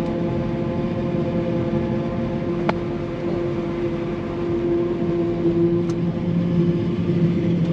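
Forage chopper running steadily under load while harvesting corn, a constant machine drone with a steady hum. Two brief sharp clicks sound about three and six seconds in.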